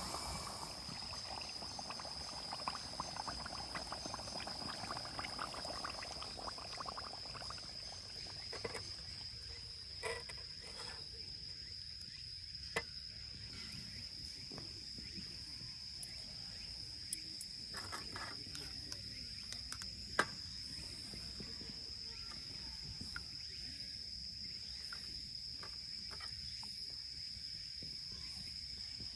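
Insects, crickets by the sound of it, trilling in one steady high-pitched chorus. A few sharp clicks stand out over it, the loudest about twenty seconds in.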